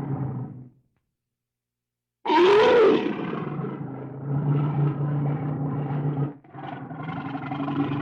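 Wild animal calls. One call fades away, then after about a second and a half of silence a new loud call begins with a cry that rises and falls in pitch and carries on as a long, low, drawn-out sound.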